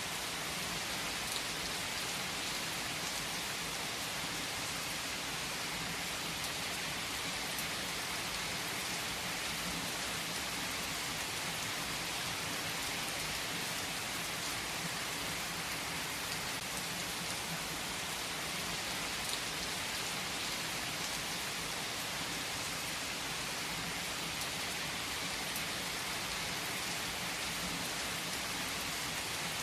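Steady rain falling: an even hiss with a few louder single drops ticking now and then.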